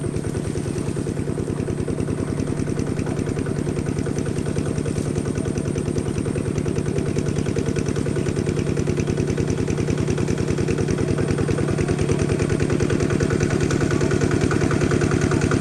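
An engine running steadily with a fast, even pulsing beat and a low hum, slowly growing louder.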